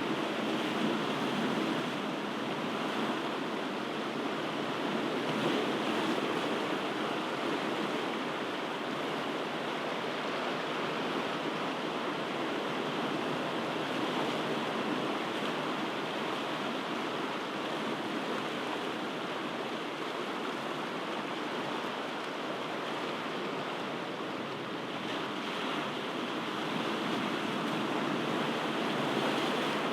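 Ocean surf: a steady rush of waves washing in, swelling slightly now and then.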